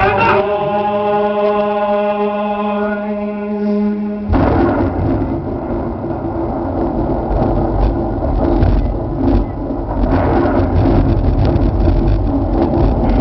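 A held musical chord with a low drone, cut off about four seconds in by a loud, steady rumbling noise.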